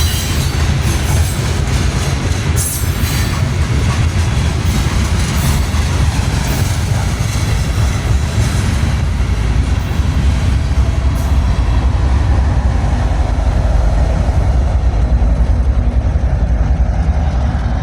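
Freight train rolling past close by: a steady loud rumble of the cars with occasional clicks from the wheels.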